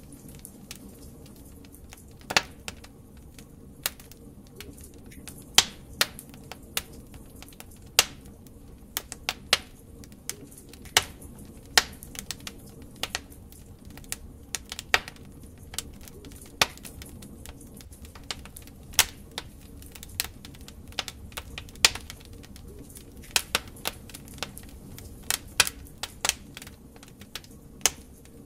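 Wood fire crackling in a fireplace: burning logs giving irregular sharp pops and snaps over a low, steady background rush of flame.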